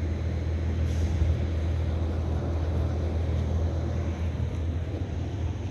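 Outdoor air conditioner condensing unit running: a steady low hum of compressor and fan with a broad whoosh of moving air.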